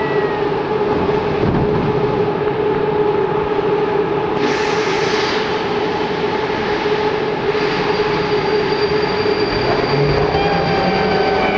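Saint Petersburg metro 'Baltiets' train running: a steady hum of rolling stock and motors with a whining electric traction drive. A hiss comes in about four seconds in and lasts about three seconds, and new rising whine tones set in near the end.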